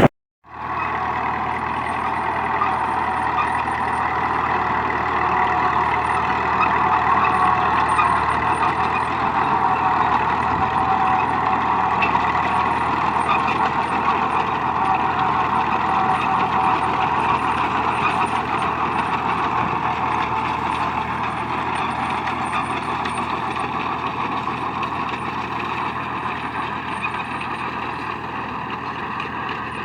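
Tractor engine running steadily as it pulls a working Massey binder cutting corn, the two together making a continuous mechanical noise that grows slightly fainter toward the end.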